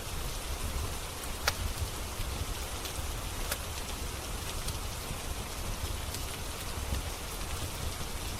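Steady rain with a low rumble underneath, and a few sharp crackles from a wood fire, the loudest about one and a half seconds in.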